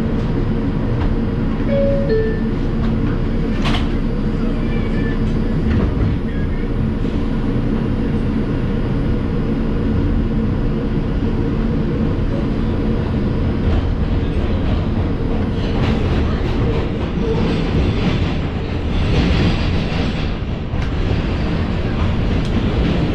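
R142 subway car interior as the train pulls out and runs: a steady low rumble of wheels on rail under the hum of the car's motors. A short two-note falling chime sounds about two seconds in, the doors-closing signal. A louder, hissier stretch of rail noise comes about three quarters of the way through.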